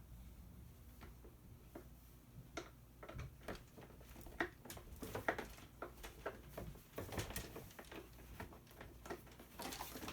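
Faint, irregular clicking and tapping of a screwdriver working small screws out of a plastic toy housing.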